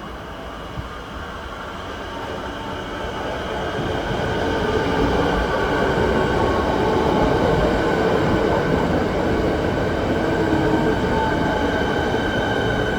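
Melbourne suburban electric train coming through the station, growing louder over the first four or five seconds and then running steadily, with high-pitched squealing tones that strengthen near the end.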